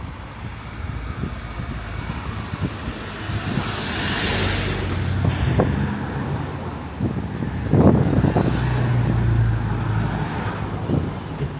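Street traffic: a vehicle passes close by about four to five seconds in, with the low hum of engines running, and a few sharp knocks about eight seconds in.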